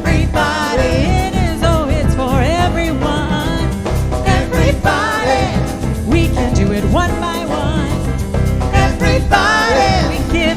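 Latin jazz band playing live: a wordless lead melody that bends and wavers with vibrato over a steady bass and percussion.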